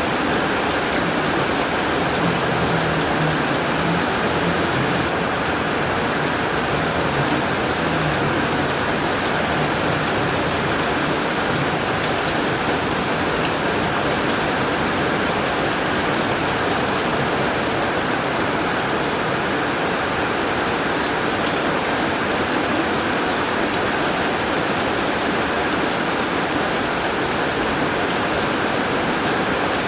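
Steady heavy rain falling on a tin roof, a dense even hiss with many small drop clicks.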